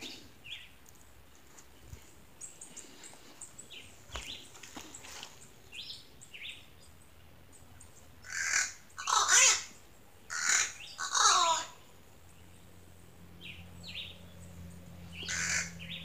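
Birds calling in a tree: scattered faint short chirps, then four loud, harsh squawks in quick succession a little past halfway, and a few fainter calls near the end.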